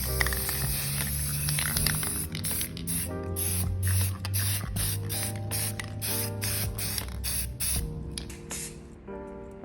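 Spray paint hissing steadily over background music with a regular beat; the spraying stops near the end.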